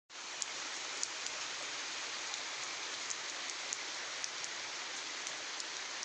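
Steady rain from a cyclone storm: an even hiss with faint, scattered drop ticks.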